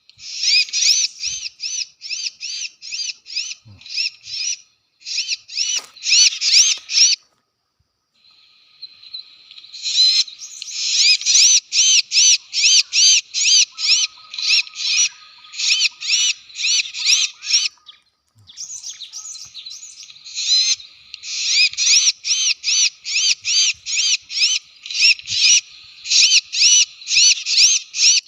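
Loud, rapid series of sharp chirping notes, about four a second, in long runs broken by short pauses: a gelatik batu (cinereous tit) call sounded as a lure to draw the birds in.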